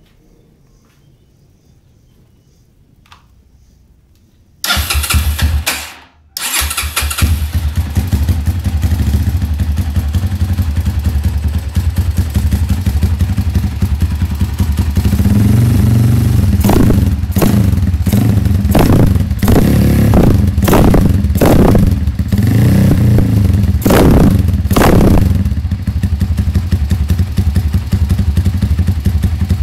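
Motorcycle with a bored-up 235 cc engine, 32 mm PE carburettor and a free-flow exhaust, started about four seconds in. It dies almost at once and is restarted, idles loudly, then takes about eight quick throttle blips before settling back to idle.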